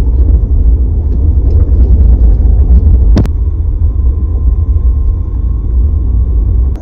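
Loud, steady low rumble, with one sharp click about three seconds in.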